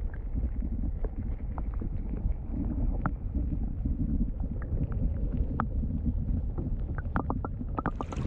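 Wind buffeting the microphone in a low, gusting rumble, with small splashes and drips of water around a canoe being paddled.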